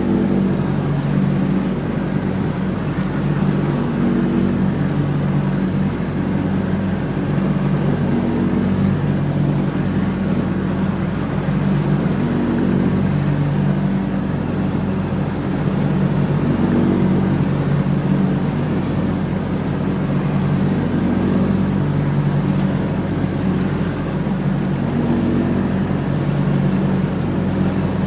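John Deere X304 riding lawnmower engine running steadily under mowing load, its tone swelling and easing slightly every few seconds.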